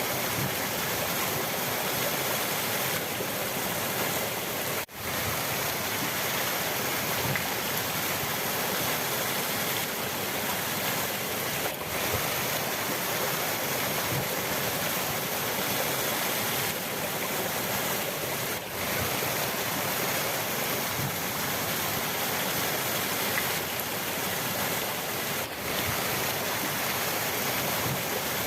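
Rushing river water, a steady dense hiss of flow, with brief dips in level about every seven seconds.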